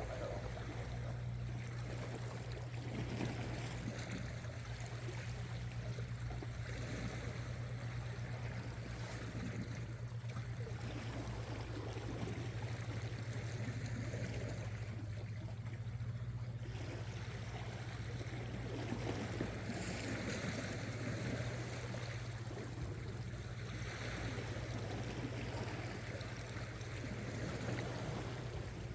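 Sea water sloshing and washing against shore rocks in irregular swells, over a steady low hum.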